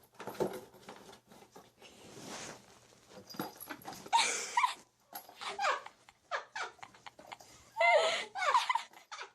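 A pet animal's wavering, whining calls: one about four seconds in and a longer, louder one near the end, among short scuffling and knocking sounds.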